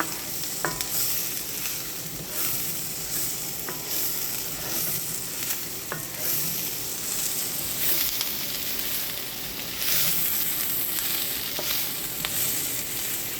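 Mushrooms and shallots frying in a skillet with a steady sizzle while being stirred constantly, with a few light clicks of the stirring utensil against the pan. The mushrooms are cooking down as their water cooks off.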